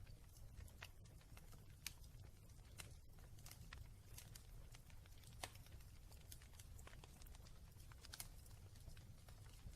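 Wood fire in a fireplace crackling softly, with irregular sharp pops over a low steady rumble.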